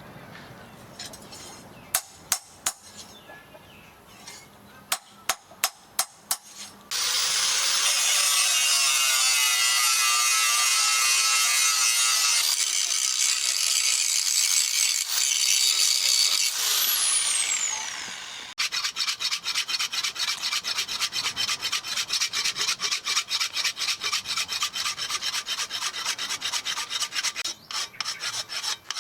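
Shop work on a rusted steel machete blade. First come a few sharp taps, then a power tool runs loudly for about ten seconds, its whine falling as it winds down. Quick, steady back-and-forth rubbing strokes on the blade follow.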